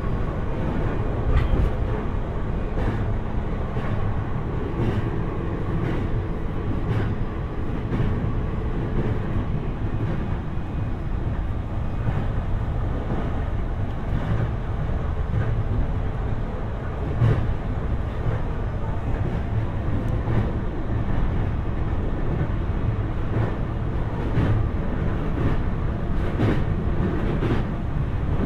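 Running noise heard from inside the passenger compartment of an E531 series electric multiple unit's motor car at speed between stations. A steady low rumble of wheels on rail is dotted with scattered clicks and knocks.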